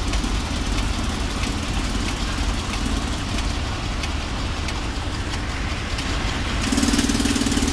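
Mercedes truck's diesel engine idling steadily, its cylinder 4 injector diagnosed as not working. Near the end a steadier, louder hum joins in.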